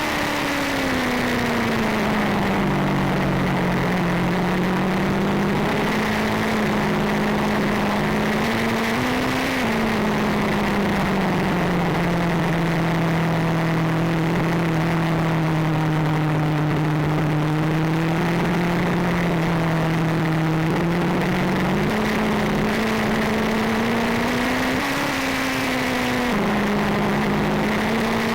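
Motorcycle engine running steadily under way, its pitch falling over the first few seconds as it slows. It then holds fairly even with gentle rises and dips, jumps up abruptly about three quarters of the way in and drops back again near the end.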